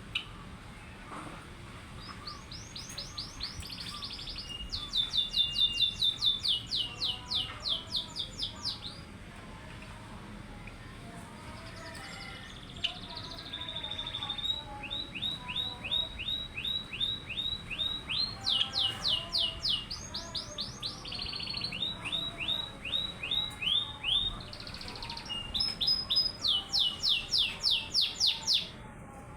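A small songbird singing: several loud trilled phrases of rapid, repeated down-slurred whistled notes, each lasting a few seconds, with short pauses between them.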